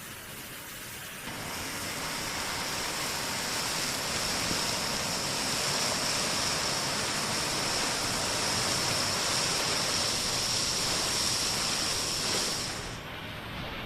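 Steady rush of falling water from a waterfall. It comes in suddenly about a second in and fades down near the end.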